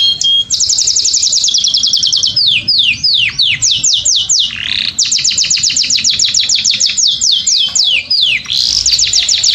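A songbird singing a loud, continuous song: fast trills of rapidly repeated notes alternating with series of slower downward-sweeping whistles.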